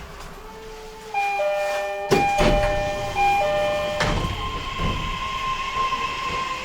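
E131 series electric train's VVVF inverter and traction motors heard from inside the car at low speed: a set of electronic tones that jump in pitch several times, broken by two sharp knocks, then settling into a steady whine.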